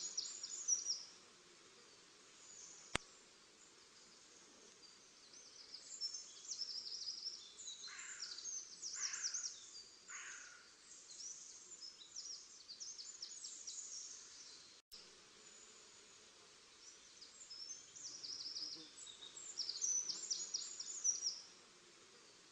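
Small songbirds singing in bursts of high, rapid twittering notes, with three slower, lower call notes about a second apart near the middle, over a faint steady outdoor hiss.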